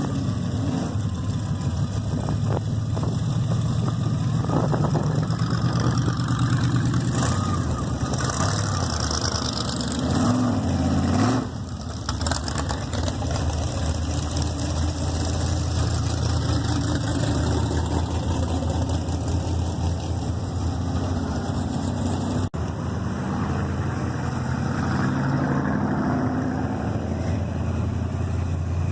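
Car engine idling with a steady low rumble, swelling briefly about ten seconds in.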